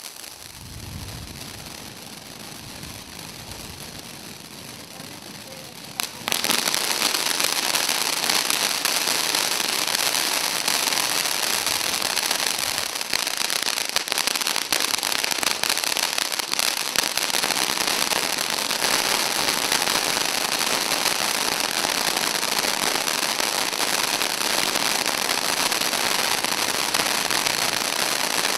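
TNT 'Opening Show' firework fountain with 500 grams of powder catching about six seconds in, then spraying sparks with a loud, steady hissing and dense crackling.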